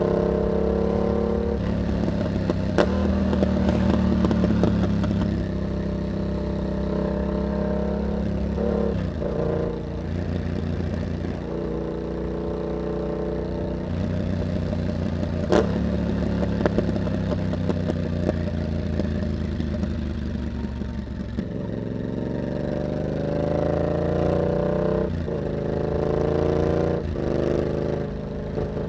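Yamaha MT-07's parallel-twin engine through an aftermarket carbon exhaust with a dB killer. The engine revs up under acceleration and drops back between gear changes several times. Two sharp clicks come through, about three seconds in and near the middle.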